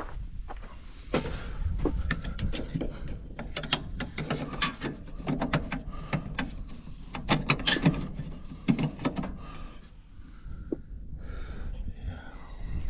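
Knocks, clicks and rubbing of things being handled and moved about, several sharp knocks in quick succession.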